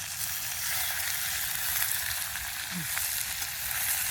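Food frying in a hot pan: a steady, dense sizzle with fine crackling.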